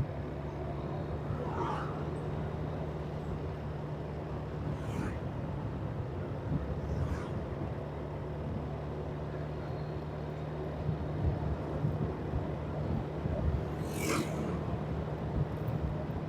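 A vehicle engine running steadily at an even pitch during a drive, with several short whooshes of passing traffic, the loudest about 14 seconds in.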